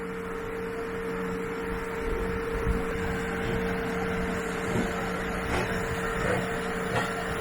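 Steady mechanical hum in two tones. A low rumble grows from about two seconds in, with a few light knocks.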